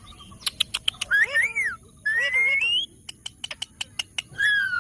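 Indian ringneck parakeet giving three short calls that glide up and down in pitch, about a second in, at two seconds and near the end, with runs of sharp clicks, several a second, in between.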